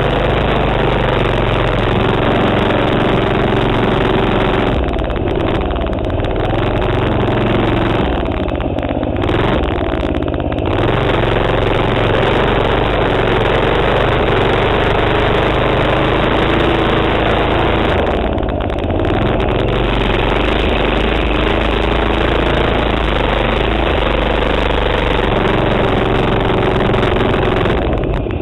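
A minibike's 3.5 hp Tecumseh single-cylinder four-stroke engine running under throttle. It eases off briefly about four times and picks up again.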